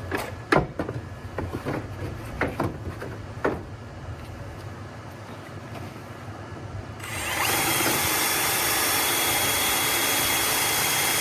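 A few light knocks and clicks, then about seven seconds in a power drill starts and runs at a steady high whine, driving a metal anchor into the wall's metal studs.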